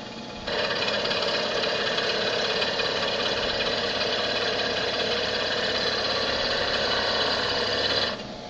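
End mill on a Comet 3KVHD manual mill cutting into a wheel under light quill feed: a steady, dense cutting noise starts about half a second in over the quieter running spindle and breaks off near the end. The end mill is likely dull.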